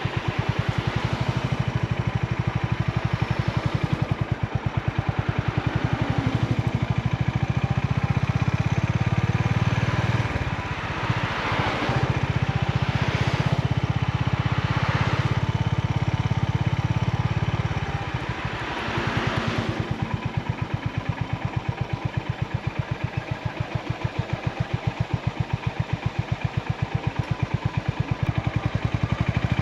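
Honda GB350's air-cooled single-cylinder engine running with a steady, rapid exhaust beat. It eases off briefly twice, about ten and eighteen seconds in.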